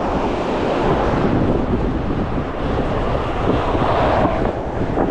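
Strong gusty wind buffeting the microphone: a loud, continuous rumbling rush that swells slightly about four seconds in.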